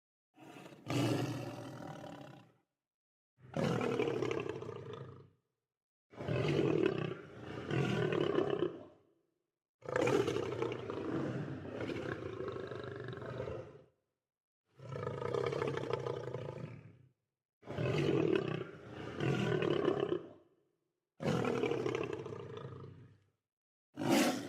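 Lion roaring over and over: about eight roars of one to four seconds each, some swelling twice, with short dead-silent gaps between them.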